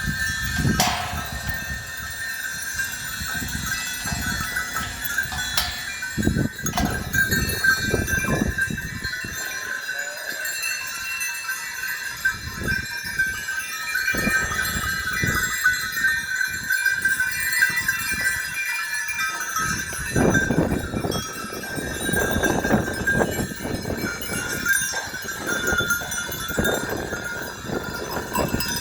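A flock of sheep: animal calls and movement over a steady high ringing, busiest in the second half.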